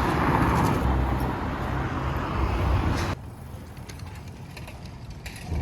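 Outdoor city street noise with a passing vehicle, cutting off abruptly about three seconds in to a quieter background.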